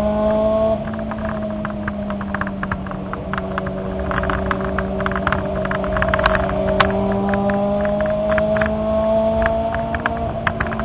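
A car's engine heard from inside the cabin while it is being driven on track. About a second in the throttle lifts and the revs drop away, then they build slowly and steadily through a corner. Sharp clicks and rattles run throughout.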